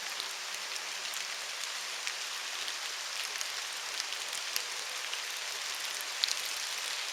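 Steady rain falling on the woods, an even hiss with scattered drops ticking close by; one sharper drop lands about six seconds in.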